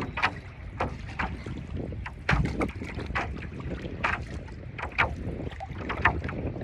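Paddleboard paddle strokes splashing in choppy sea water, with short sharp splashes at irregular intervals. A low wind rumble runs on the microphone underneath.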